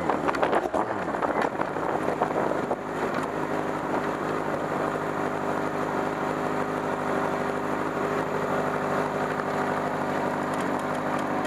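Honda engine of a Kalì Kart E2M racing car dropping in revs in the first second or so, then idling steadily while the car sits stopped.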